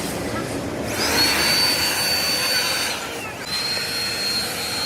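Metal-cutting machine running in a workshop, a steady noise with a thin high whine that breaks off about three seconds in and comes back slightly lower.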